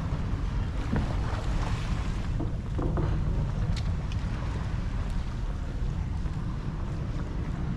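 Wind buffeting the microphone: a steady low rumble under a faint, even outdoor hiss, with a few small ticks.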